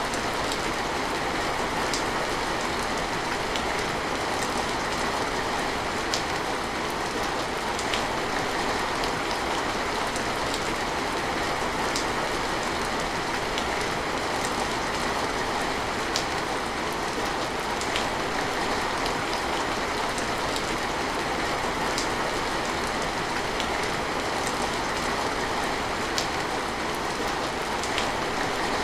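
Steady heavy rain falling, an even dense hiss, with a single louder sharp drop-tick every couple of seconds.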